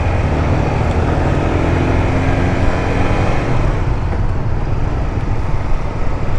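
A 150cc motorcycle running while being ridden, with a steady, loud rush of engine and road noise. A faint engine note shows through for a couple of seconds.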